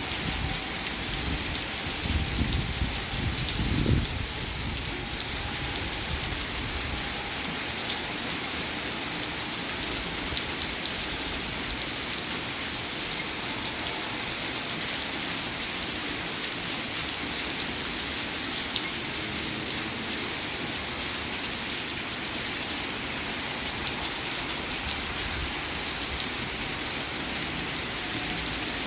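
Steady rain falling, with a brief low rumble about two to four seconds in.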